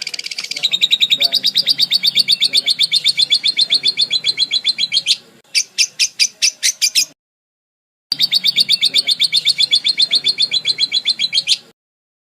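Parakeet chirping in fast, evenly repeated high chirps, about ten a second. There are two long runs with a short stretch of separate chirps between them, and each run cuts off suddenly into silence.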